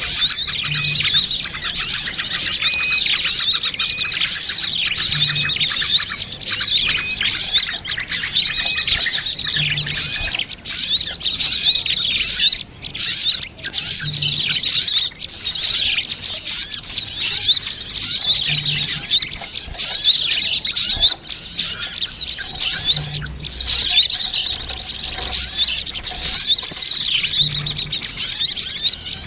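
Dense, unbroken chorus of many small songbirds chirping and twittering rapidly over one another: a mixed bird-lure (pikat) recording made to draw small birds in. A faint low pulse repeats about every four and a half seconds beneath the chirping.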